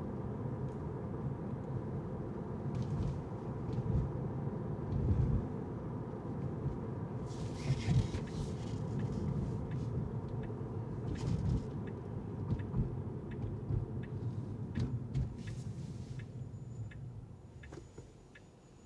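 Car driving on city streets: a steady low rumble of tyres and engine, with a few faint clicks and a brief hiss, dying down near the end as the car slows.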